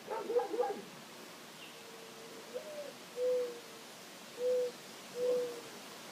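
A bird's low hooting coo: a short note, a higher rising note, then three long even hoots about a second apart. A brief choppy call comes just before it at the very start.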